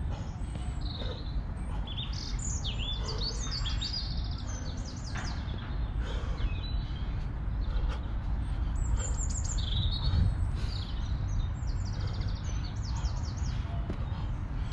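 Small songbirds chirping in quick runs of high notes, over a low steady rumble.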